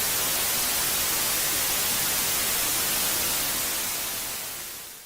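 Steady hiss of white noise like TV static, cut in abruptly and fading out over the last second and a half.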